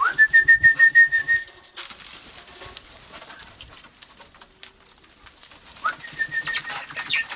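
A flock of parrots chattering and squawking as they are hand-fed. A high trilling whistle rises and then holds steady for under two seconds at the start, and comes again near the end.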